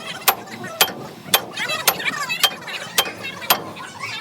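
Hammer striking metal at a steady pace, eight blows about half a second apart, each with a short metallic ring.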